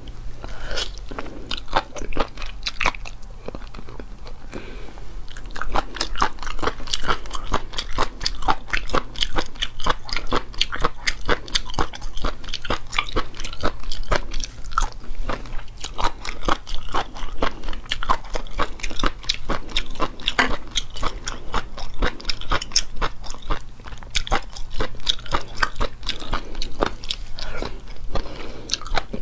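Close-miked mukbang eating: crisp, rapid crunches and crackles of a person biting and chewing crunchy food.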